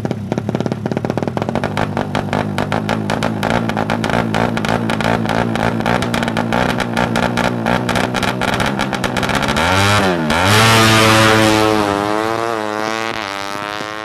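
Suzuki Satria FU single-cylinder motorcycle with an open racing exhaust, its firing pulses quickening as the revs climb. About ten seconds in the pitch dips sharply and recovers, and the bike is then at its loudest. After that its pitch climbs through the gears as it pulls away and slowly fades.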